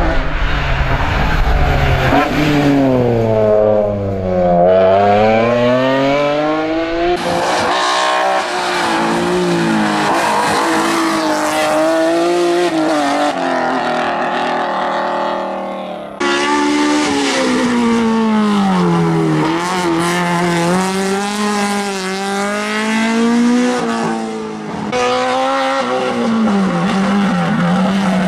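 BMW M3 race car engine at full throttle on a hill climb, its pitch rising and dropping again and again through gear changes and corners. The sound jumps abruptly three times as different runs follow one another.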